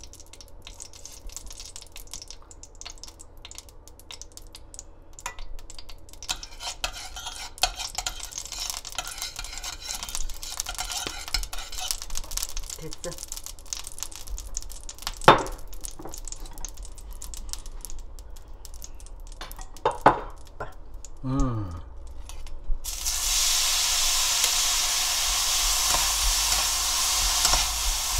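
Sesame oil heating in a stainless steel pot, crackling faintly, with a few sharp clinks of a utensil. Near the end, shredded dried pollack that was soaked and drained goes into the hot oil and sizzles loudly and steadily as a spoon stirs it.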